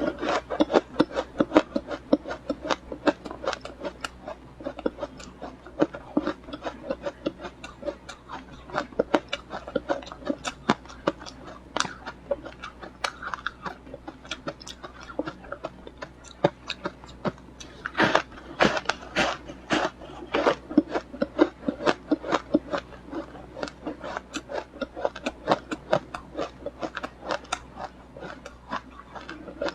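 A person biting and chewing ice, a steady run of sharp crunches several times a second, with a cluster of louder crunches about two-thirds of the way through.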